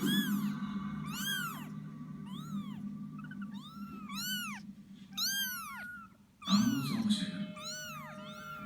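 Kittens mewing over and over: about a dozen short, high calls that rise and fall in pitch, coming in quick succession over a steady low hum.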